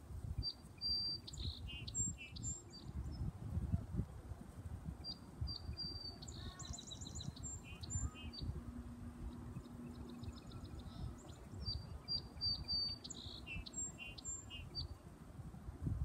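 A bird calling: high chirps, short whistles and rapid ticking notes in three bouts with short pauses between, over a low rumble.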